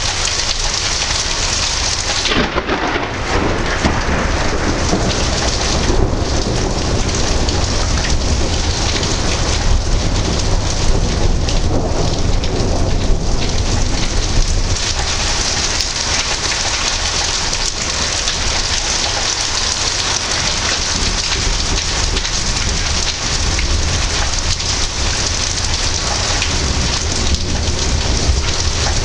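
Heavy thunderstorm: steady rain falling hard, with thunder rumbling underneath. The thunder swells about two seconds in and again near the middle.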